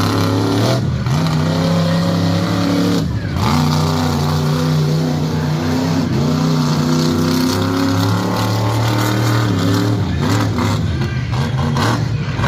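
Loud truck engine revving hard. Its pitch drops and climbs again about a second in, around three seconds, and again around six seconds, with a rougher, choppier stretch near the end.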